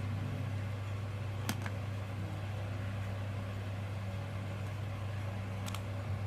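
Steady low electrical or fan hum, with two short sharp clicks, one about a second and a half in and one near the end.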